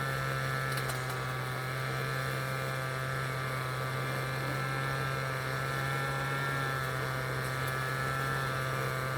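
City traffic ambience dominated by a steady, unbroken low hum, with a cluster of faint steady higher tones above it and a light hiss of background noise.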